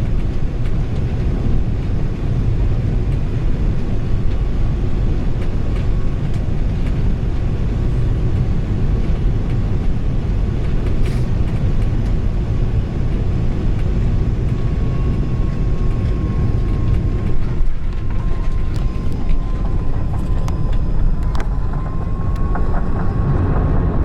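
Steady low rumble of an Airbus A380 heard inside the cabin during the approach to landing, with a faint thin whine holding near one pitch and a few light clicks in the second half.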